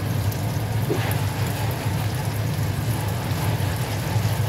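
Lentil meatballs shallow-frying in hot oil: steady sizzling with fine crackles, over a steady low hum.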